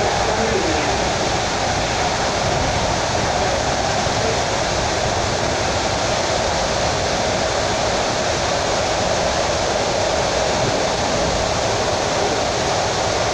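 Suburban electric train running at speed, heard from inside the carriage: a steady, even rushing noise of wheels on rail and air.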